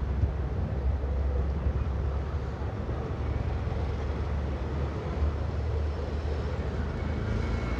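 Passenger coaches of an express train rolling slowly past on the track: a steady low rumble of wheels on rail.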